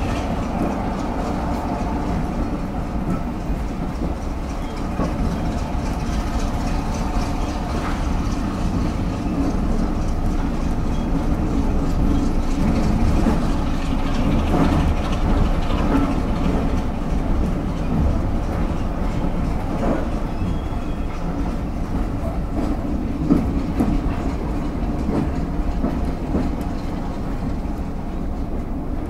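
A railway carriage running slowly over jointed track, heard from inside the car: a steady rumble with wheels clicking over the rail joints. Beneath it is the running of the hauling BRCW Class 33 diesel locomotive, with its Sulzer eight-cylinder engine.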